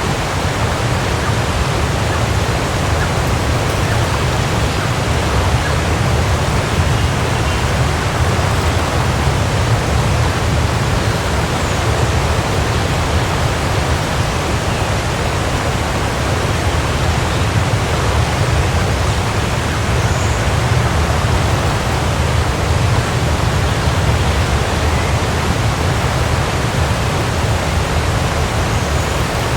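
Waterfall: falling water rushing steadily, with a deep low rumble under the splash.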